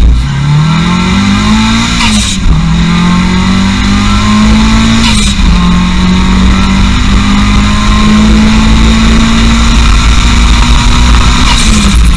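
Car engine accelerating hard down a drag strip, shifting up twice, with a sharp crack at each gear change, then holding high revs before dropping away near the end.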